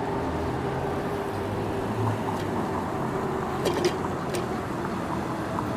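City traffic noise heard from a moving e-bike: a steady mix of road and vehicle noise with a constant hum, and a few short sharp clicks a little past halfway.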